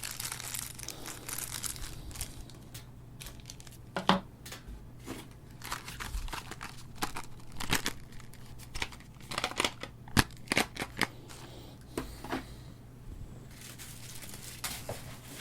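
Packaging crinkling and rustling as it is handled close to a lavalier microphone, with scattered sharp clicks and taps. A faint steady low hum sits underneath.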